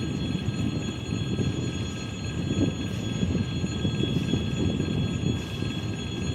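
A train running at the station: a steady low rumble with a few faint steady whining tones above it.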